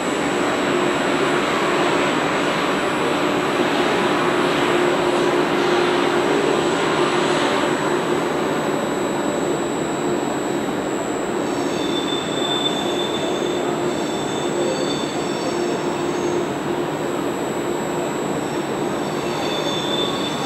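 A Trenitalia train moving slowly along a station platform: a steady rumble with a held hum, and high-pitched wheel squeal coming and going from about halfway through.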